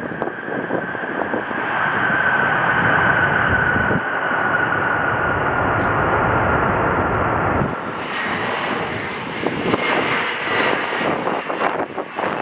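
Boeing 777's jet engines running as it passes, a loud whine slowly falling in pitch. About eight seconds in this gives way to a United Express Embraer regional jet's engines, with a higher whine.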